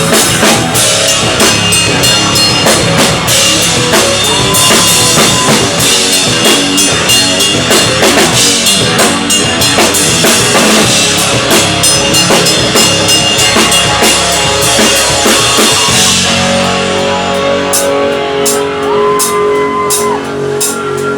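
Live rock band playing loudly: drum kit with crashing cymbals and electric guitar. About sixteen seconds in, the drums and cymbals thin out and the guitar rings on.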